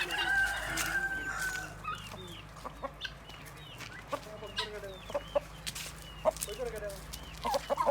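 Chickens calling: a long drawn-out rooster call in the first two seconds, then scattered short clucks and chirps with a few sharp clicks.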